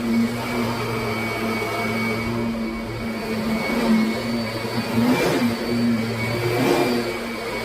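Kirby Sentria upright vacuum cleaner running with a steady motor hum and whine. The pitch wavers briefly about five seconds in and again near seven seconds.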